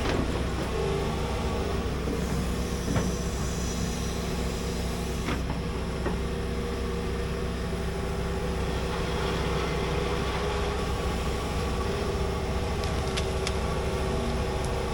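Large hydraulic excavator's diesel engine running steadily, with a couple of sharp knocks in the first half.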